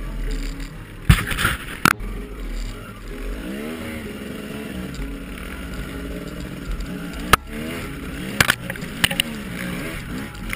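Off-road dirt bike engines revving, their pitch rising and falling as the throttle is worked. A few sharp knocks break in along the way, loudest about a second in and again after seven seconds.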